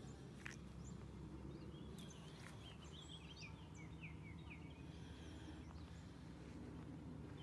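Faint outdoor background with a steady low rumble, and a bird calling a quick run of short chirps from about one and a half to four and a half seconds in. A few light clicks are heard along with it.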